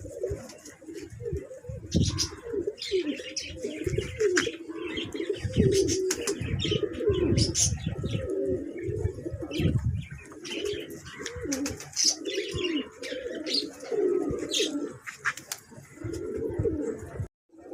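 Several pigeons cooing over and over, the coos overlapping, with smaller birds chirping in the background. The sound cuts out for a moment near the end.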